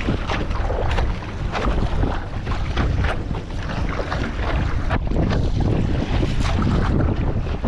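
Strong wind buffeting the microphone with a heavy low rumble, over irregular splashing of choppy sea water around a stand-up paddleboard.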